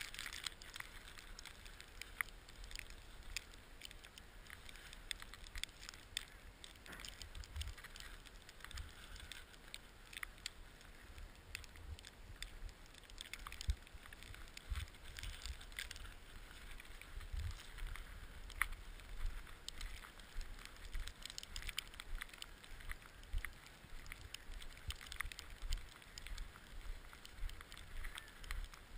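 Skis sliding and scraping over snow with many small crackles, while wind buffets the microphone in uneven low gusts.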